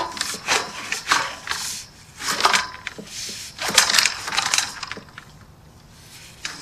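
Sewer inspection camera's push cable being fed into the line, giving irregular scraping and rattling strokes that die down about five seconds in.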